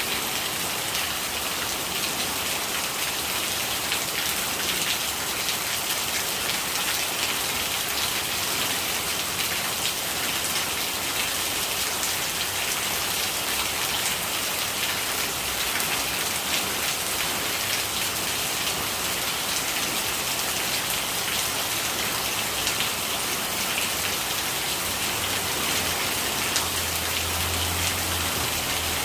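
Steady rain falling, a dense patter of drops hitting a surface. A faint low hum comes in near the end.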